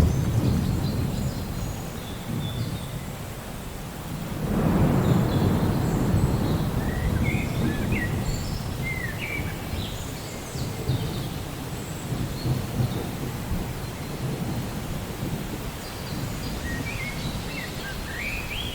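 Steady rain with rolls of thunder. One deep rumble fades over the first few seconds, and another swells about four and a half seconds in and dies away slowly. Birds chirp now and then over the rain.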